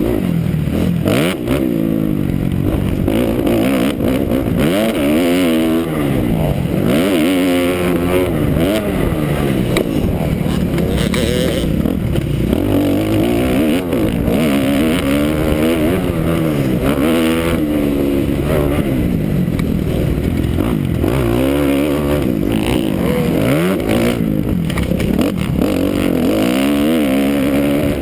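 2009 Kawasaki KX250F four-stroke single-cylinder motocross engine racing hard, its pitch rising and falling over and over as the throttle is opened and shut and the gears change.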